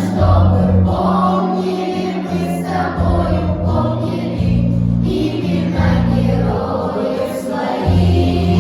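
A children's choir singing a song in unison over an instrumental backing track with steady held bass notes.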